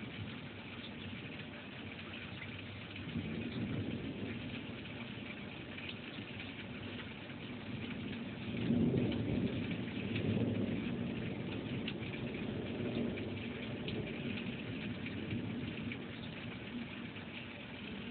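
Steady rain falling with rolling thunder: a low rumble swells about three seconds in, and a louder, longer one comes around the middle.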